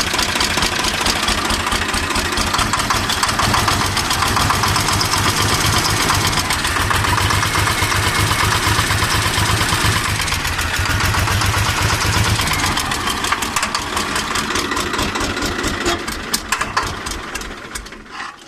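Swaraj 855 FE three-cylinder diesel tractor engine running with a fast, heavy clatter from the valve gear, the extra engine noise caused by a broken rocker bolt. The engine slows and stops near the end.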